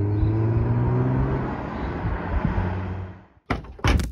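Car engine sound effect running as the car pulls up, its pitch falling slightly before it fades out after about three seconds. Near the end come a few sharp knocks and a thud.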